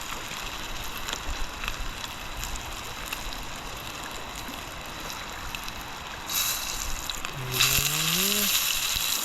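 Fish frying in hot oil in a small camping pot, a steady sizzle with scattered crackles, turning louder and hissier about six seconds in and again a second later. A short hummed voice rises near the end.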